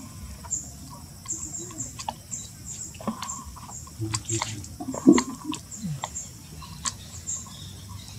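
Small high-pitched chirps repeating every half second or so, typical of birds, with scattered clicks and taps and a brief louder sound about five seconds in.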